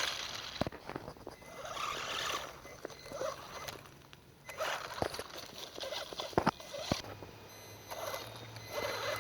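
WLtoys 12428 electric RC truck driving through wet mud: irregular bursts of motor and tire noise as the throttle is worked, with a few sharp clicks.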